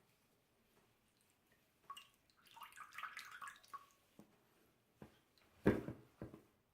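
Water splashing and dripping as a baby doll's hair is washed and rinsed, followed near the end by a sharp knock and then a smaller one.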